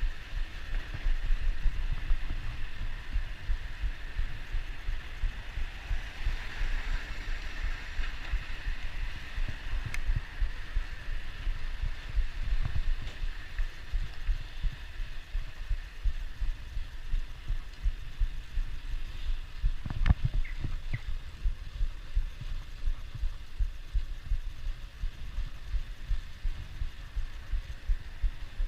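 Wind buffeting the microphone in a fluttering low rumble during a bicycle ride, over a faint steady hiss. A single sharp knock comes about twenty seconds in.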